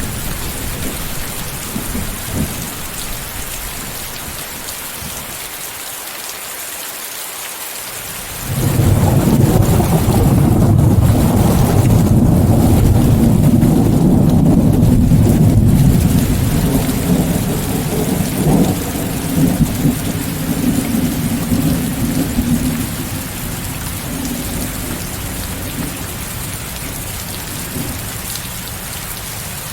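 Steady rain hiss, mixed with white noise, under a long roll of thunder. The thunder breaks in suddenly about a third of the way through, stays loud for several seconds, then rolls away slowly.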